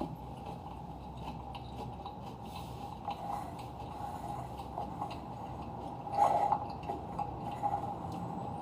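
Eating at a table: small clinks and rubs of a utensil against a dish, with a louder clatter about six seconds in, over a steady background hum.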